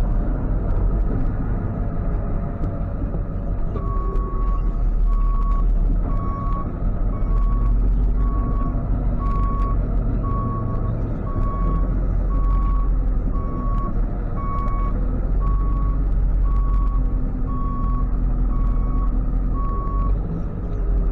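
Tow truck reversing: its backup alarm beeps about once a second at one steady pitch, starting a few seconds in, over the low, steady running of the truck's engine.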